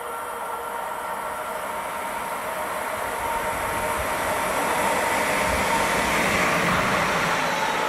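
Electric locomotive-hauled train approaching on the rails, its rumble growing steadily louder, with several steady high tones running over it.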